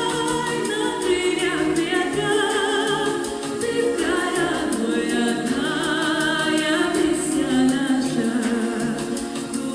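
Female voices singing a slow, sustained melody with vibrato, close harmony in several parts, heard as a choir or vocal ensemble.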